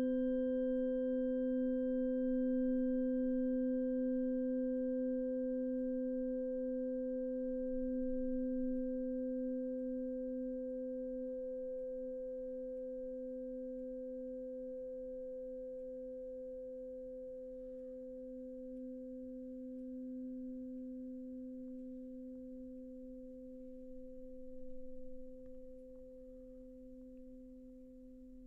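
A sound-healing instrument ringing one pure, low tone with faint higher overtones, fading slowly and evenly over the whole stretch, with a slight waver in the tone.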